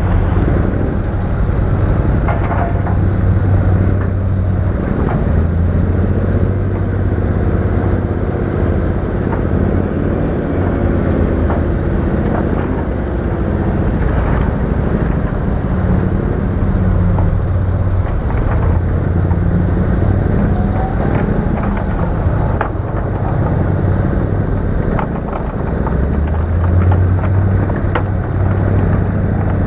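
Heavy diesel earthmoving machinery running steadily, its low engine drone swelling and easing, with scattered metallic clanks and knocks.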